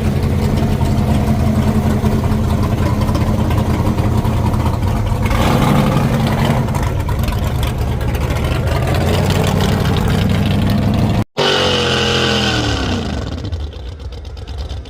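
A pulling truck's engine running hard under load against the sled, louder and harsher from about five seconds in. After a sudden brief cutout near the end, the revs wind down and the engine falls quieter.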